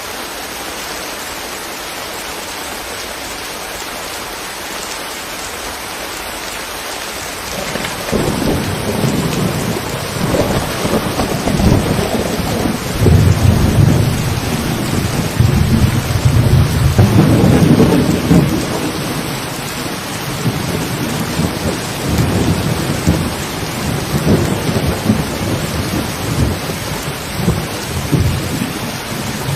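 Steady rain, then a long rumble of thunder rolling in about eight seconds in and swelling twice, heavy in the low end, with the rain going on underneath.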